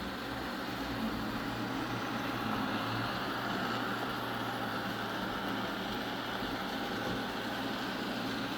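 Eufy robot vacuum running: a steady whir from its suction fan and brushes over a constant low hum.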